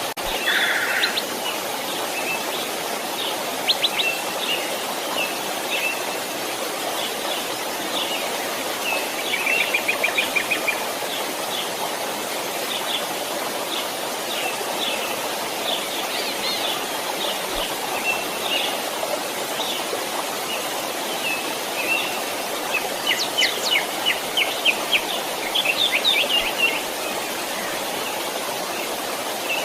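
Steady rush of a flowing stream with songbirds chirping and trilling over it, the bird calls busiest about a third of the way in and again near the end.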